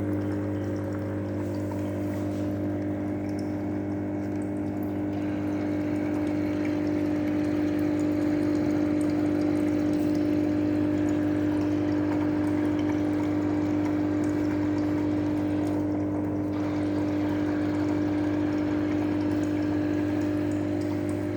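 Aquarium air pump humming steadily as it pushes air through a hose into a water-filled plastic bottle, the water bubbling continuously.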